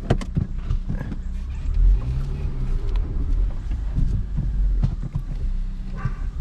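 7th-generation Honda Accord engine idling, its pitch rising briefly and falling back about two seconds in, with scattered clicks and knocks from inside the cabin.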